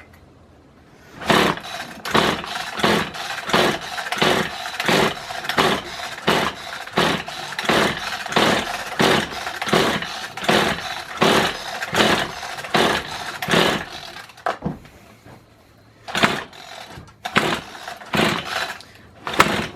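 Recoil pull-starter of a Kawasaki hedge trimmer's small two-stroke engine yanked over and over, about two pulls a second, with a short pause near the end. The engine cranks but never fires; it still has spark after new piston rings, and it is taken for a dud.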